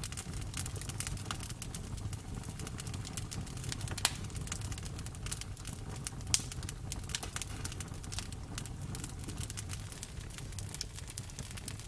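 Campfire crackling: a steady low rumble of burning with many small snaps and pops, two louder pops about four and six seconds in.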